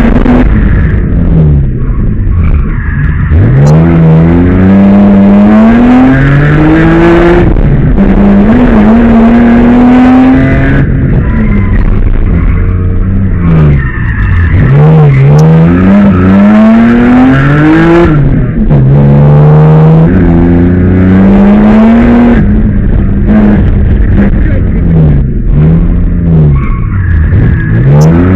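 BMW E30 with a swapped-in M5 engine being revved hard while driven sideways, its pitch climbing steeply and dropping back again and again as it accelerates and lifts, with the tyres skidding.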